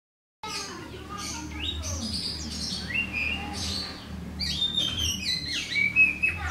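Oriental magpie-robin (white-breasted kacer) singing: a fast, varied run of short whistled notes that rise and fall, starting about half a second in. A steady low hum lies underneath.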